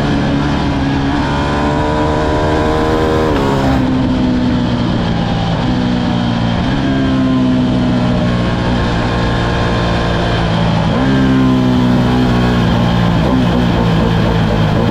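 Ducati Streetfighter V2's 955 cc Superquadro V-twin engine under hard acceleration while riding, its pitch climbing and then jumping to a new level several times as the gears change, with the revs falling away near the end.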